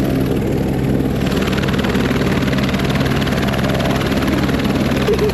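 Helicopter engine and rotor running in flight, heard from inside the cabin: a steady, loud drone with a rapid, even rotor beat. About a second in, the higher hiss grows louder.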